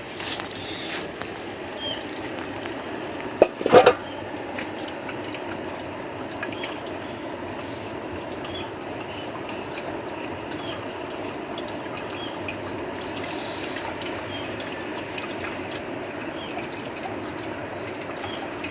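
Steady rain falling with water dripping, and one sharp knock about four seconds in.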